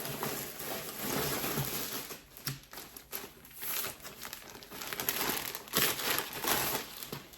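Plastic packaging bags crinkling and rustling in uneven bursts, with a few sharper crackles, as clothing is pulled out of and unwrapped from them.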